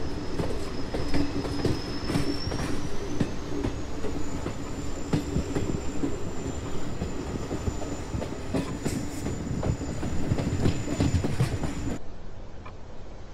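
Train running on rails: a steady rumble with wheel clatter and a thin, high wheel squeal that rises in pitch a couple of seconds in. Near the end it cuts suddenly to a much quieter, duller hiss.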